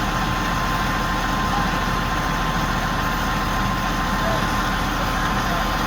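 Big crane's diesel engine running steadily at idle, with a thin steady whine above it.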